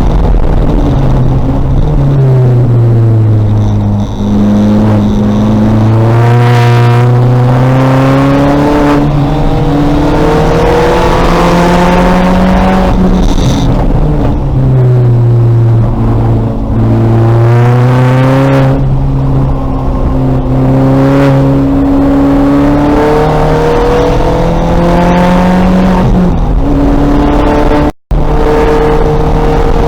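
Race-prepared 2000 Volkswagen Golf's engine at full throttle on track: the pitch climbs for several seconds, drops sharply at each gear change and falls away under braking, then climbs again. The sound cuts out for an instant near the end.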